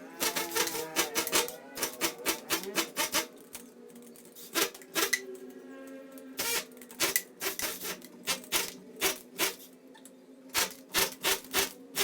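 Rapid, irregular scraping strokes of a hand tool working into a wall, cutting a channel for a cable route. The strokes come in quick runs of several, with short pauses between.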